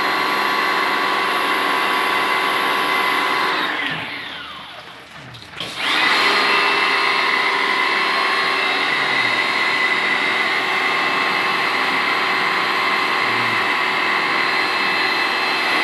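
Electric high-pressure washer running steadily with water spraying. Its motor winds down about four seconds in and starts up again about two seconds later.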